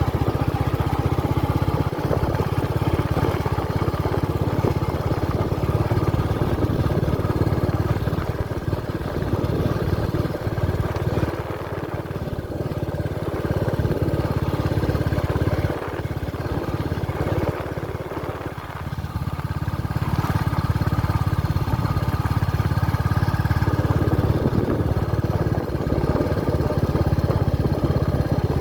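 Royal Enfield Meteor 350's single-cylinder motorcycle engine running steadily, easing off a few times in the middle.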